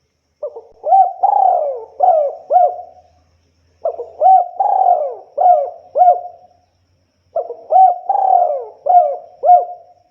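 Spotted dove (tekukur) singing its cooing song: three phrases of several coos each, repeated about every three and a half seconds with short pauses between.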